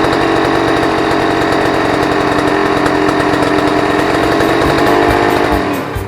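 A Honda CRM250 two-stroke single running loudly at a steady, raised speed instead of settling to idle, the hanging-revs fault the owner is chasing with carburettor setting. Near the end the engine note falls away as the revs drop.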